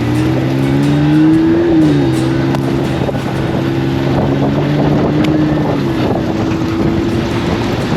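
Ram 1500's turbocharged inline-six accelerating on a dirt trail: the revs climb, drop at an upshift about two seconds in, then climb slowly again until another shift about six seconds in.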